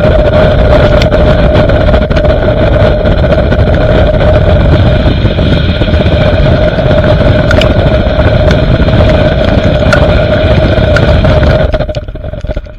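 Loud, steady road and wind roar inside a car driving fast, with a constant droning tone over the low rumble and a few small clicks. The sound fades out near the end.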